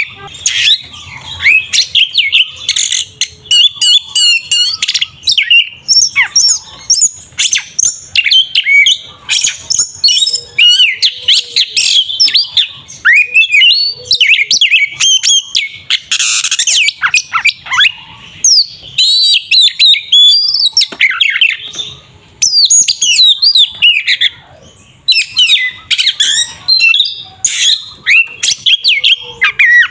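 Oriental magpie-robin (kacer) singing loudly and continuously in its aggressive fighting song: a rapid, varied run of high whistles, slurred glides, trills and sharp clicking notes with only brief breaks.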